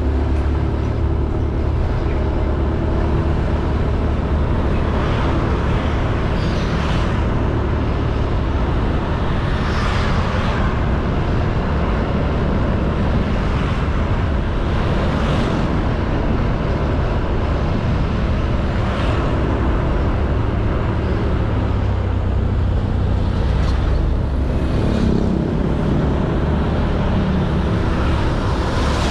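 Honda Beat 110cc scooter engine running steadily while riding, with road and wind noise and several brief hissing swells, such as passing traffic.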